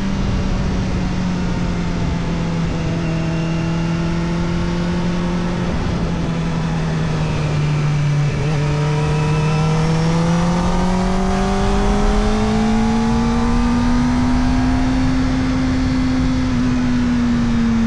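Kawasaki Ninja ZX-4RR's 399 cc inline-four running through an Arrow Indy Race Evo titanium exhaust with the dB killer fitted, heard from the bike on the move. The engine note sags slowly for the first half, then climbs steadily as the throttle opens and eases off slightly near the end, over a low rumble of wind.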